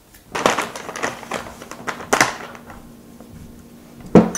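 Close-miked chewing: wet, crunchy mouth sounds with irregular clicks through the first half. A single loud, short sound comes just after four seconds.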